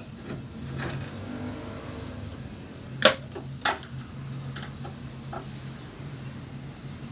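Two sharp knocks about half a second apart over a steady low hum.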